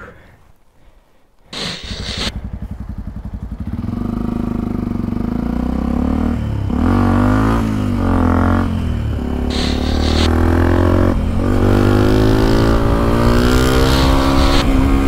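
Yamaha WR125X 125 cc single-cylinder four-stroke engine with an Exil aftermarket exhaust, starting up about a second and a half in and idling briefly. It then revs as the bike pulls away, the pitch dropping three times at the gear changes before it runs steadily.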